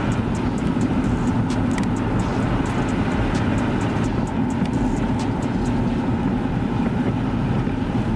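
Steady rumble of a vehicle on the move: engine and road noise, with a few faint clicks.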